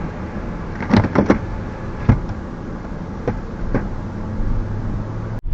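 Car engine running, heard from inside the cabin as a steady low hum, with a few short clicks and knocks scattered through it. The sound drops out abruptly for a moment near the end.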